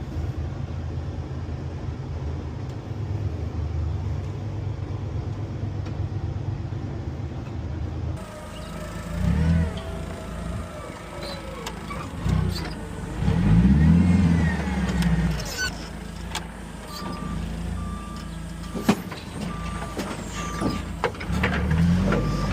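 A heavy vehicle's engine runs at a steady low hum. After a cut, an engine revs up and down a couple of times. Near the end a reversing alarm beeps steadily over the engine.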